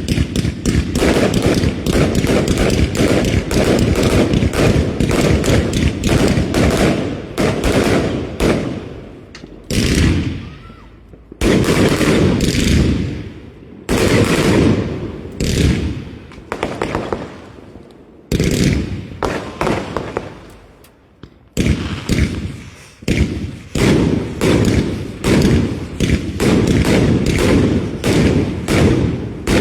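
Fireworks going off in rapid volleys: dense runs of loud bangs, several a second, broken by a few short pauses where the last bangs fade away.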